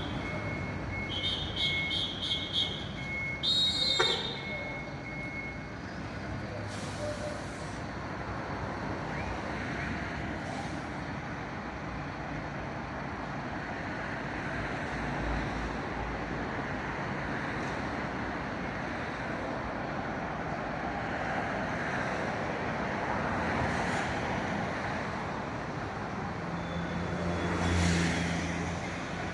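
Road traffic noise, opening with a run of short high electronic beeps over a steady high tone that stop after a few seconds. Near the end a heavy vehicle's engine hum swells as it comes close.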